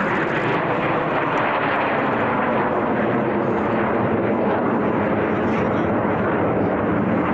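Aircraft engine noise from a plane flying a display, a loud, steady rush with no clear pitch that holds evenly throughout.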